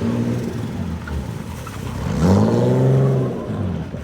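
Car engine revving: running with a steady note, then about two seconds in it revs up sharply, holds high for about a second, and drops back near the end.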